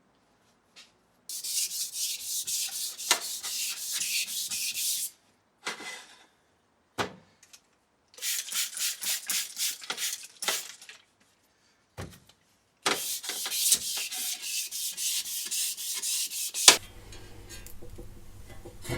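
Hand sanding of a metal part: three bouts of quick back-and-forth strokes, about four a second. Near the end a click is followed by a steady electric-motor hum.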